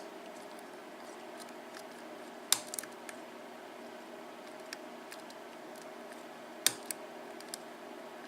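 Lock pick and tension wrench working the pin stack of an ABUS padlock during single-pin picking: scattered small metallic ticks, with two sharper clicks about two and a half seconds and near seven seconds in. A steady low hum runs underneath.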